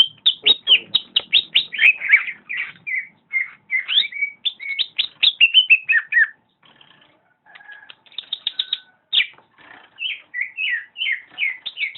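Cucak ijo (greater green leafbird) singing a rapid, varied song of chirps and whistled glides, with a short lull about halfway through before it starts again.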